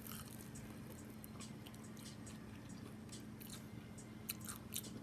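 Close-up chewing of a sandwich: faint wet mouth clicks and smacks, with a couple of sharper ones near the end, over a low steady hum.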